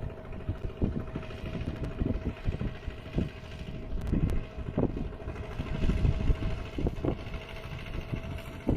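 Kubota mini tractor's single-cylinder diesel engine running under load while plowing wet mud, with a steady drone and irregular low thumps.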